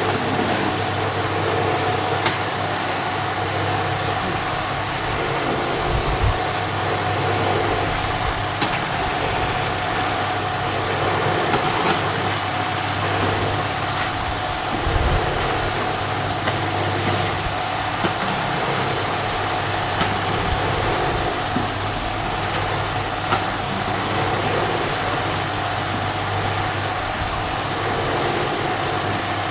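A motor running steadily with a constant hum, with a few brief knocks now and then.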